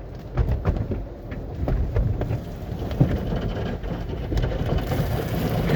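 Automatic car wash spraying water onto a car: an uneven pattering hiss with scattered taps and a low rumble underneath.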